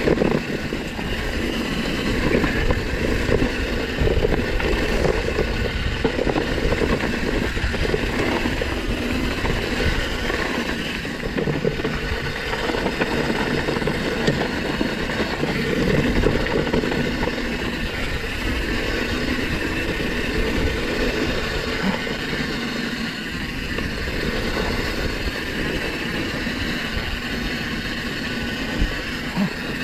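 Downhill mountain bike riding fast down a dirt trail, picked up by a chest-mounted camera: a continuous rush of tyre noise with dense clatter and rattling from the bike over rough ground.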